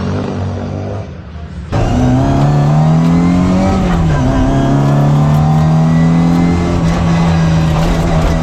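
Classic Mini rally car's engine heard from inside the car, running hard at high revs. It jumps louder about two seconds in. The pitch dips and climbs back once in the middle, then holds steady.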